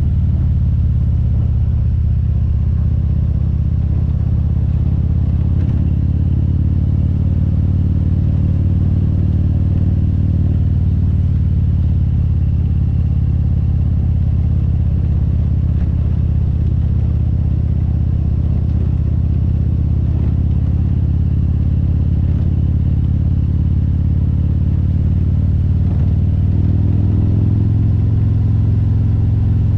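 Harley-Davidson Road Glide's V-twin engine running steadily under way, a loud, even low drone with no sharp changes.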